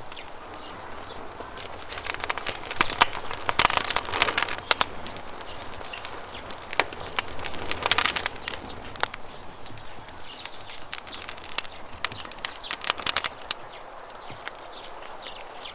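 Campfire crackling, with bursts of sharp snaps clustered about three to five seconds in, again around eight seconds and near thirteen seconds, over a steady rush of running river water.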